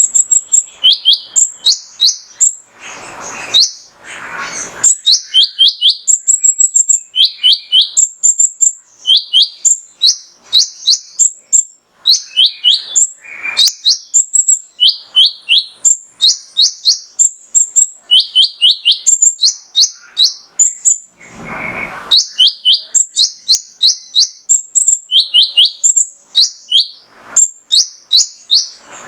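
Male olive-backed sunbird (kolibri ninja) singing a fast, continuous run of sharp, high-pitched chirps and trills, the male's call used to provoke other males. Two brief noisy bursts break in, about three seconds in and again past twenty seconds.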